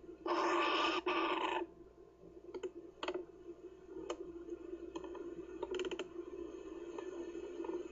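Kookaburra chick giving a harsh, rasping begging call in two quick pulses, followed by scattered sharp clicks and taps, over a faint steady hum.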